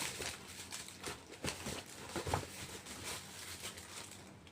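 Hands handling a cardboard shoe box and its contents: irregular rustling and light clicks, with a couple of louder knocks about one and a half and two and a half seconds in.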